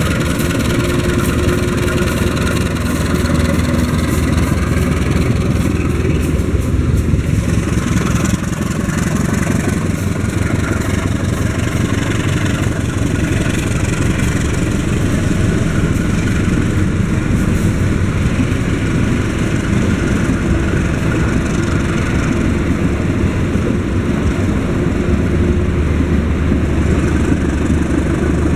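Diesel-electric locomotive's engine running as it pulls a passenger train away from the platform, followed by the coaches rolling past on the rails, with a steady low hum throughout.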